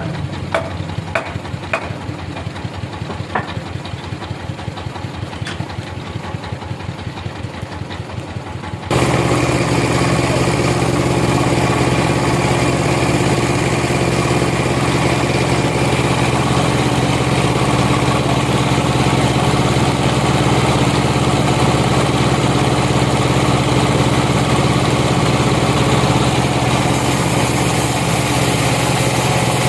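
Sawmill machinery running: an engine idles with a fast, even beat and a few light clicks, then about nine seconds in it switches suddenly to a louder, steady run with a strong hum.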